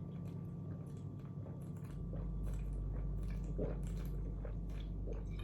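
A person drinking ice-cold sparkling water: sipping and swallowing, with many small irregular clicks. A low steady hum sets in about two seconds in.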